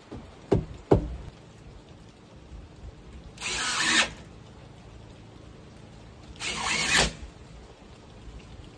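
Two sharp knocks, then two short bursts of a power drill or driver, each about half a second long, growing louder and stopping suddenly.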